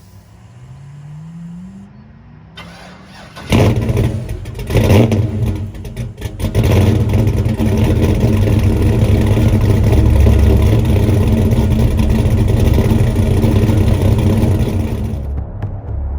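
LS V8 in a Chevy S10 truck: a faint rising whine, then the engine fires about three and a half seconds in. It surges a couple of times and settles into a loud, steady run through long-tube headers, a 3-inch exhaust and a single MagnaFlow-style muffler.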